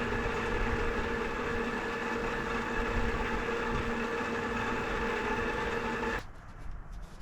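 Cheetah e-bike's electric motor spinning the rear wheel and chain on the stand, running at a steady speed with a whine, then cutting off about six seconds in. No clunking is heard from the drivetrain.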